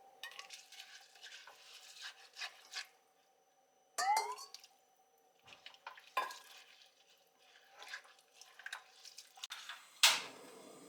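Kitchen utensils and dishware handled in a series of separate clinks, knocks and scrapes, the loudest a sharp knock near the end, followed by a steady hiss.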